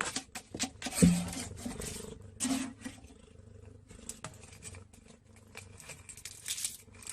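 A cat making a couple of brief low sounds, among scattered clicks and knocks.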